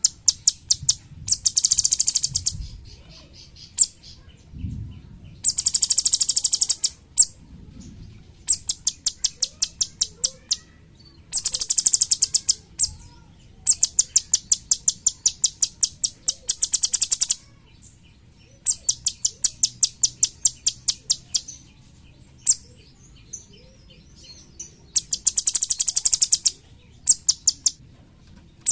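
Cucak cungkok singing in rapid-fire 'tembakan' phrases. Bursts of very fast, high-pitched repeated notes, each lasting a second or two, come again and again, with slower single chips between them.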